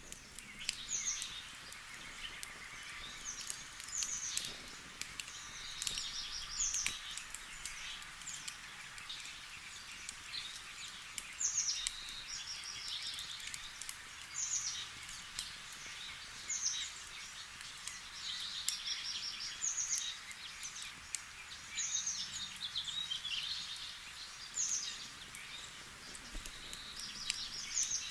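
Wood campfire crackling with scattered sharp pops, over a steady hiss. Songbirds sing short phrases of high, falling notes followed by trills, repeating every two to three seconds.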